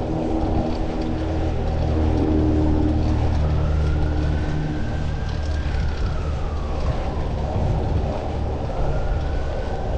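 City traffic with a vehicle engine running close by and wind on the microphone; a distant siren wails, rising and falling once, then starting to rise again near the end.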